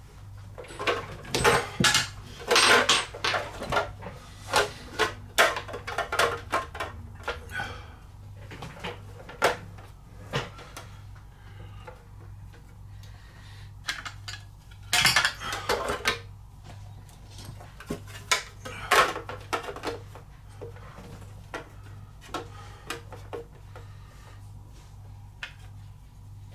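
Irregular clicks, taps and clatter of hard plastic and metal parts of a radio-controlled crawler being handled on a workbench, busiest in the first eight seconds with a few louder knocks later, over a steady low hum.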